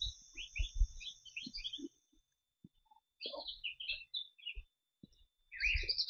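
Small birds chirping in quick runs of short high notes, in three bouts, over a steady high hiss that stops about two seconds in. Soft low thumps near the start and the end.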